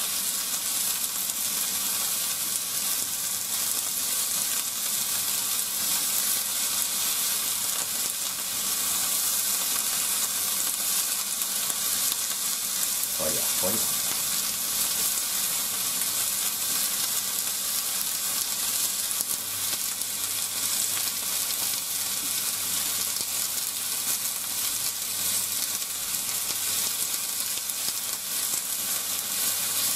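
Pork and sliced onions frying in a frying pan with a steady sizzle, stirred and turned with chopsticks.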